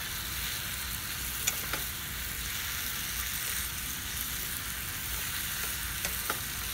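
Sliced carrots sizzling in a glaze in a hot nonstick skillet, stirred and tossed with a slotted spatula, with a steady hiss. The spatula knocks against the pan a few times, twice about a second and a half in and twice near the end.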